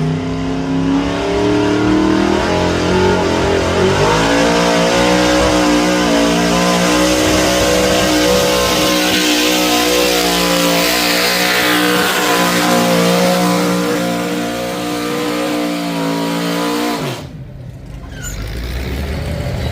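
Pulling truck's engine at full throttle under load, dragging the weight sled down the track. The revs climb about four seconds in, hold high and steady, then fall away abruptly near the end as the throttle is let off.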